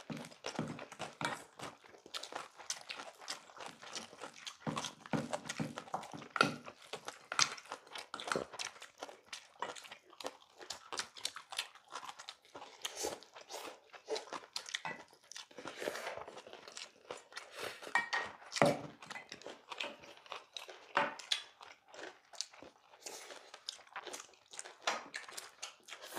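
Close-up chewing and crunching of mouthfuls of bibimbap picked up by clip-on microphones: a dense, irregular crackle of bites and smacks. Spoons and chopsticks click and scrape now and then against stainless steel bowls.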